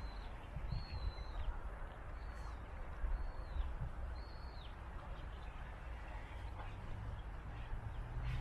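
A bird calling: a short high call repeated four or five times in the first half, each ending in a downward slide, over a steady low rumble.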